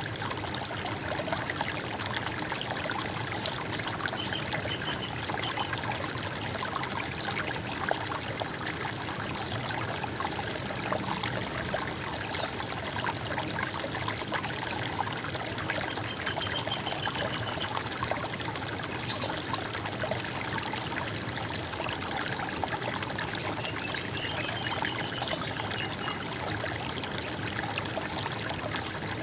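Running water trickling and splashing steadily, with a few brief, faint bird calls about four seconds in, near the middle and toward the end.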